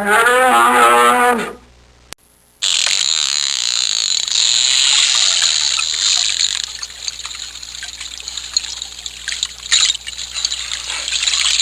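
A cow mooing once at the start, a single drawn-out call. After a short pause comes a long, steady, high hissing noise with some crackle.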